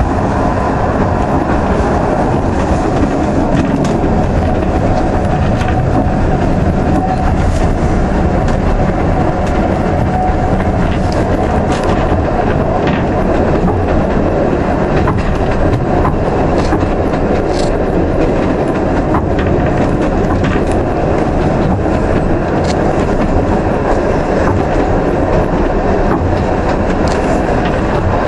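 Isle of Man Steam Railway narrow-gauge train running along the line, heard from aboard: a loud, steady rumble and rattle of the wheels and carriage, with irregular sharp clicks and knocks from the track.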